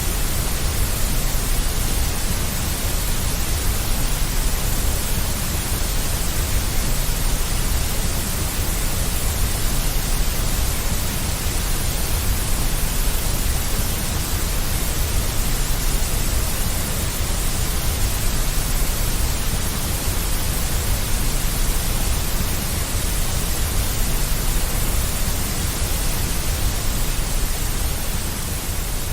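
Steady, unchanging deep white noise: an even hiss with a strong low rumble underneath.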